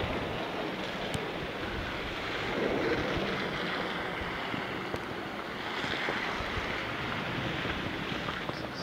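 Wind rushing across a pocket camera's microphone: a steady noise with a low rumble.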